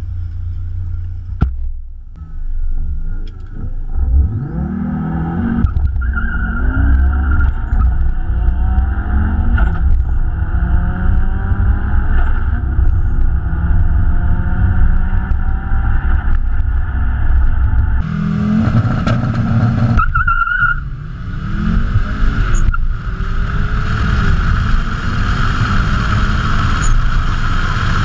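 Car engine accelerating hard through the gears on a drag-strip run, its pitch climbing and dropping back again and again as it shifts, heard from inside the cabin. After about eighteen seconds the sound becomes harsher and hissier, and the rising sweeps repeat.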